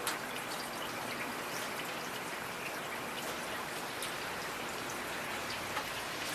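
Steady rain, an even hiss with many individual drops ticking sharply through it.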